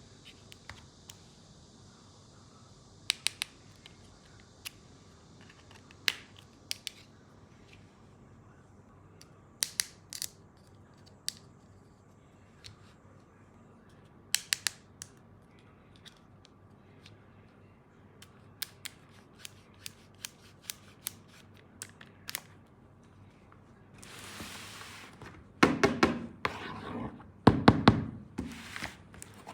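Sharp plastic clicks and taps as toy tool-kit pieces are handled and fitted, scattered one or two at a time. Near the end a brief hiss, then bursts of quick clattering.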